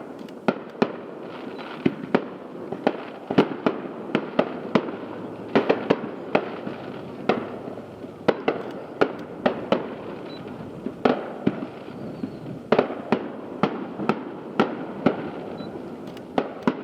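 A fireworks display heard from a distance: a rapid, irregular run of sharp bangs from aerial shells bursting, a few each second, over a continuous background hiss.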